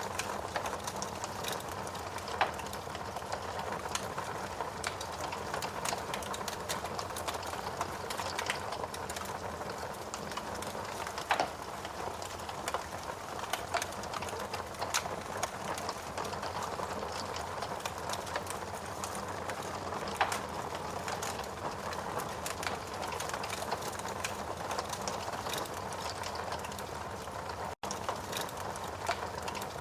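Steady rain with a wood fire crackling and popping at irregular moments; the sound drops out for an instant near the end.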